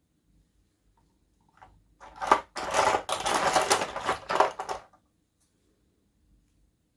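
A plastic toy or its packaging being handled close up: a burst of rapid clicking and crinkling rustle lasting about three seconds, starting about two seconds in with a sharp click.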